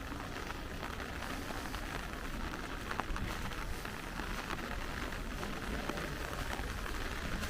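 Steady rain falling and pattering on surfaces, with many small drop ticks over a constant hiss.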